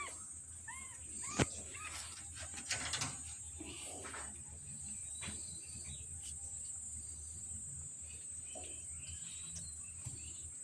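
Kittens giving several short, high mews in the first couple of seconds, over a steady, high-pitched insect drone, with a sharp click about a second and a half in.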